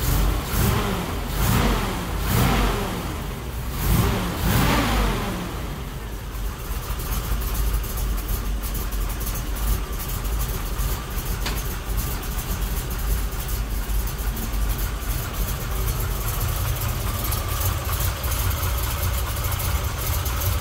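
Freshly built carbureted small-block Chevy V8 running just after start-up. Its revs rise and fall about four times in the first five seconds, then it settles into a steady idle. The valvetrain is quiet, without its former ticking, now that the hydraulic lifters' valve lash has been set.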